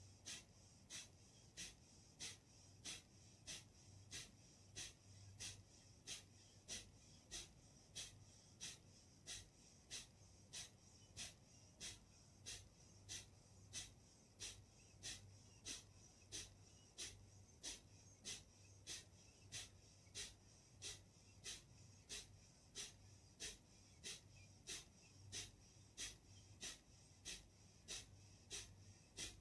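Faint, rapid, forceful exhalations through the nose in Kapalbhati breathing: short hissing puffs at a steady rhythm of about two a second.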